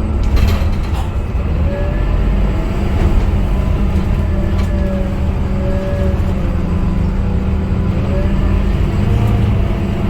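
Scania K250UB city bus running, its engine and drivetrain making a steady low drone. A fainter whine slowly rises and falls as the bus changes speed, with a few short clicks or rattles near the start and about halfway through.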